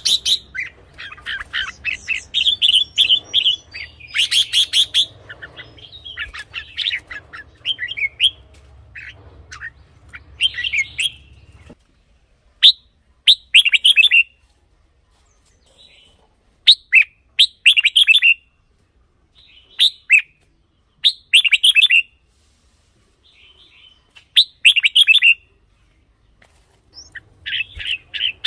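Red-whiskered bulbul singing short, loud, warbling phrases again and again with brief pauses between them. A faint low hum under the first part stops abruptly about twelve seconds in, where the recording is cut.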